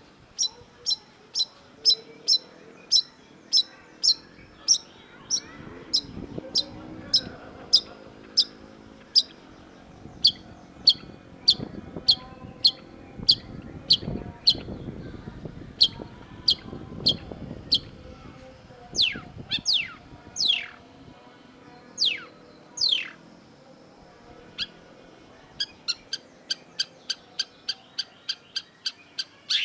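Long-tailed shrike calling: a long run of short, sharp high chirps at about two a second, then a few longer calls that slide downward in pitch, and after a short pause the chirps return faster near the end.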